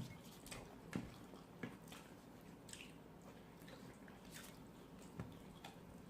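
Faint chewing and soft mouth clicks of people eating, with scattered small smacks about once a second.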